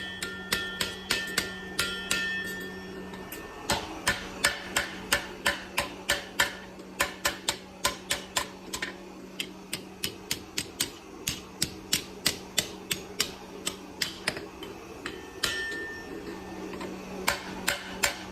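Hammer blows striking metal in quick runs of about three a second, the first few ringing out, over a steady low hum.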